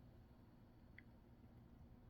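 Near silence: faint room tone, with one tiny tick about halfway through.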